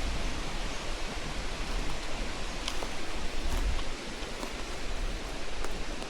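Steady rushing outdoor noise of a wet forest after rain, with a few faint, sharp ticks scattered through it.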